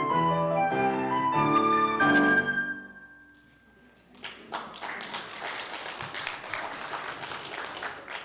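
Instrumental music ends on a long held note that fades away, and about a second later the congregation applauds.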